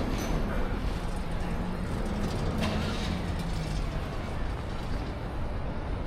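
City street noise: a steady low rumble of road traffic, with a vehicle engine humming nearby through roughly the first half.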